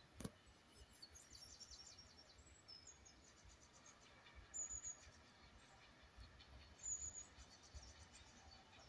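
Faint birdsong of several birds: short high chirps and trills, the loudest about halfway and again near the seventh second, with one sharp click just after the start.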